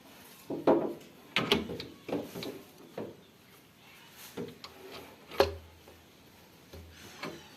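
Irregular knocks, clicks and short scrapes of metal parts and tools being handled while working on a tractor gearbox, about eight separate strikes at uneven spacing, the loudest about five and a half seconds in.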